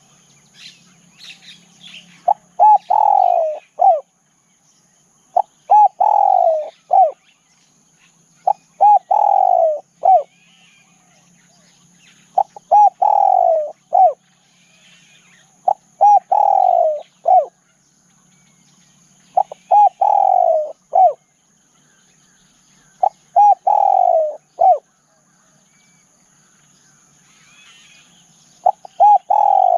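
Spotted dove cooing, repeating the same phrase about every three to four seconds, eight times. Each phrase is a couple of short coos, a longer falling coo and a short final note. Faint chirps of other birds and a steady high insect drone run underneath.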